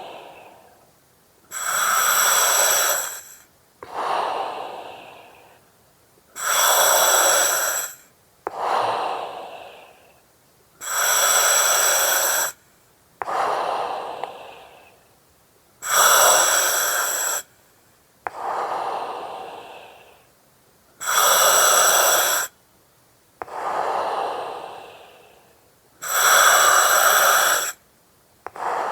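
Slow, even breathing through an oxygen mask and its regulator. Each breath in is a hiss that starts and stops sharply. Each breath out is a softer rush that trails off. There are about six breaths, one every five seconds or so.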